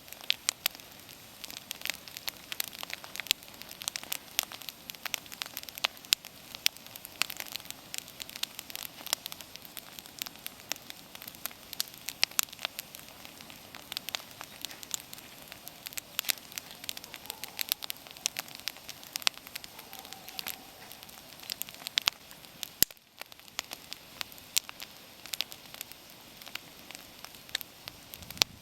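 Wood bonfire burning: frequent irregular sharp crackles and pops over a steady hiss of flame.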